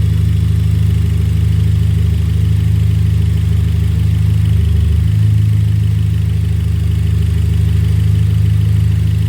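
A Hyundai Genesis Coupe's 2.0-litre turbocharged four-cylinder engine idling steadily, heard close up with the hood open; its note shifts slightly about five seconds in.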